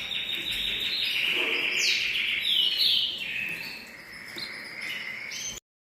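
Songbirds singing: a fast, steady trill, then a run of quick downward-sweeping whistled notes. The song cuts off suddenly shortly before the end.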